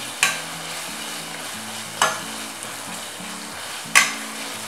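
Tomato and onion masala sizzling in oil in a stainless-steel pressure cooker while a spatula stirs it, knocking sharply against the pot three times about two seconds apart, the last knock the loudest. Background music plays underneath.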